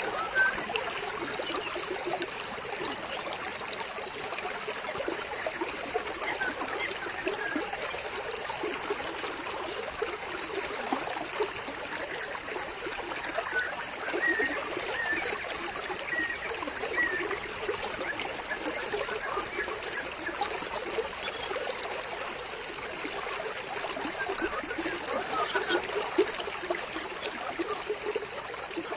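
Water flowing in a small stream, trickling and babbling steadily.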